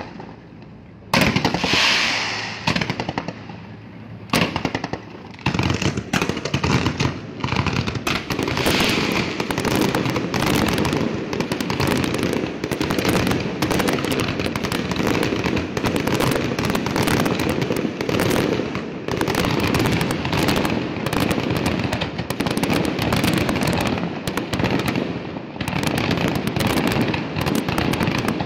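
Fireworks display: a few separate bangs at first, then from about five seconds in a dense, continuous barrage of bangs and crackling.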